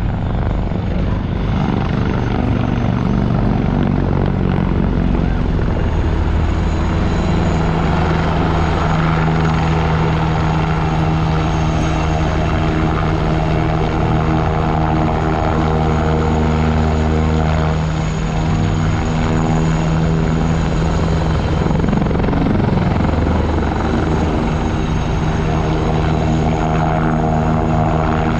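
Military helicopter flying overhead, its rotors and turbine engines running loud and steady.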